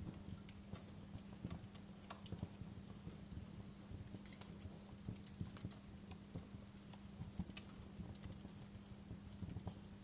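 Wood fire crackling, with irregular sharp pops and snaps over a low rumble and a steady low hum.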